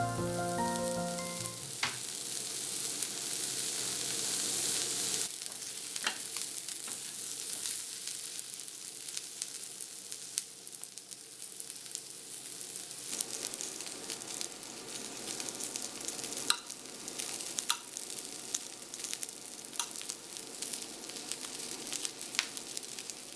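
Food frying in a hot pan: a steady sizzle with scattered pops and crackles.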